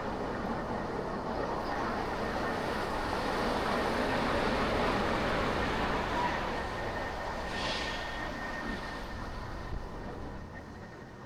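City traffic and road noise heard from a car being driven, swelling to a peak about halfway through and easing off toward the end, with a faint steady high tone running under it.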